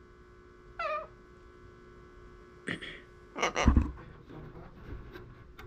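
Steady electrical hum, broken by a few brief sounds: a short call falling in pitch about a second in, and a louder thump with rustling around three and a half seconds in.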